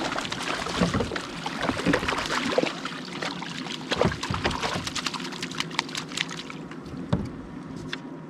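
Water splashing irregularly as a hooked smallmouth bass is fought up to the kayak and landed, the splashes dying down about six and a half seconds in.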